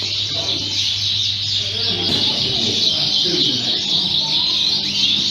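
Many Fife canaries chirping and singing at once, a dense, unbroken chorus of short high notes, over a murmur of people talking.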